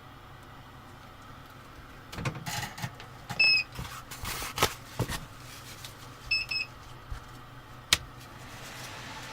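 A short electronic beep sounds twice, about three seconds apart, among clicks and knocks of handling, over a steady low hum.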